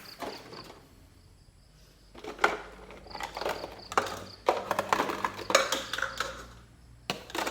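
Dishes and bowls clattering and knocking as they are handled and set down: a quiet start, then a run of sharp knocks and clinks for several seconds.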